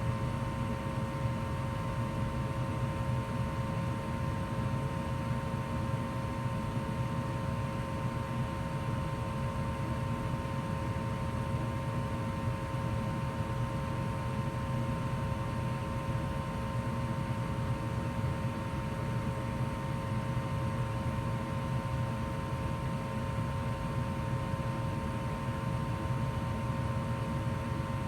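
2004 Goodman gas furnace running steadily in heat mode: a constant low rush of burner and blower air with a steady hum.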